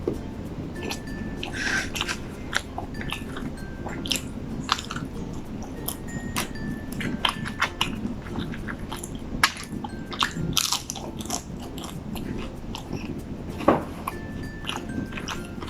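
A person chewing and biting crunchy fried food close to the microphone, with wet mouth clicks and crunches at irregular intervals.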